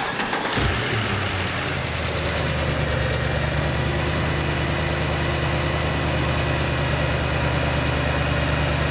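Mercedes-AMG M156 6.2-litre naturally aspirated V8 starting up in the first second and settling into a steady idle. After its head bolt and cam adjuster repair it runs normally, with no clunking.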